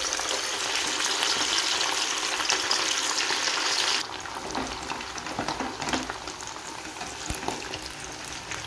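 Raw-mince chapli kebab patties frying in hot oil, a loud steady sizzle. About four seconds in it drops abruptly to a quieter sizzle with a few crackles.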